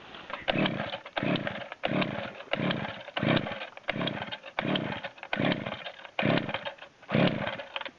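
Chainsaw being pull-started: about ten quick, rhythmic yanks of the recoil starter cord, each giving a short rasping turn-over of the two-stroke engine, which does not catch.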